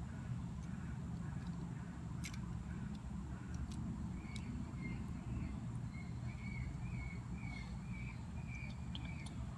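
A small bird chirping over and over, short chirps about twice a second through the second half, over a steady low outdoor rumble. A few faint clicks come from Lego pieces being fitted together by hand.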